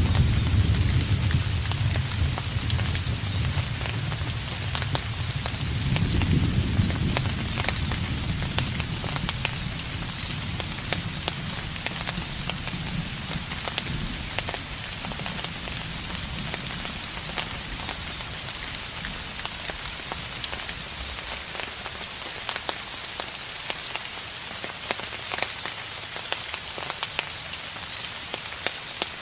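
Steady rain falling on a surface, with many single drops striking. Distant thunder rumbles low at the start and fades, swells once more about six seconds in, then dies away, leaving only the rain.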